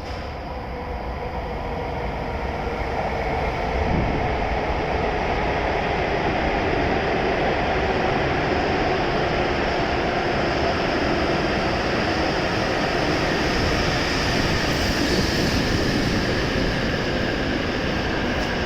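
W7 series Shinkansen train pulling into the platform: the noise of its wheels and running gear builds over the first few seconds, then holds steady.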